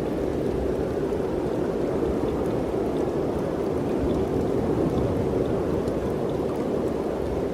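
Mountain wind blowing steadily, a continuous rushing with a low rumble beneath it.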